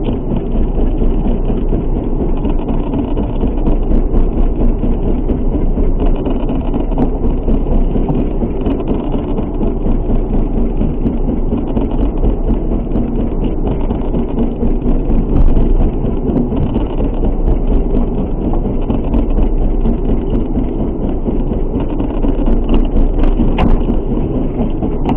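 A fishing boat's engine running steadily under way, a continuous rumble mixed with wind and waves in rough sea.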